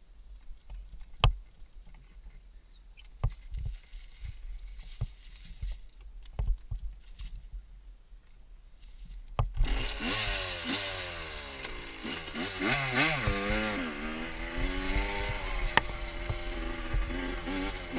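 Motorcycle engine starting up about halfway through, then revved up and down repeatedly, after several seconds of scattered knocks and clicks.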